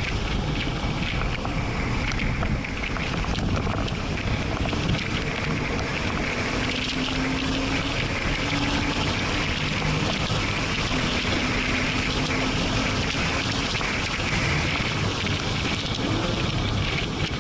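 Porsche sports car driven hard, heard from inside the cabin: engine running under load with wind and road noise, its note holding fairly steady through the middle of the stretch.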